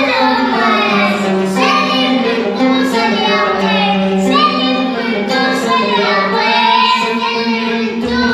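A boy singing an Arabic song in long, ornamented phrases over a steady held low note.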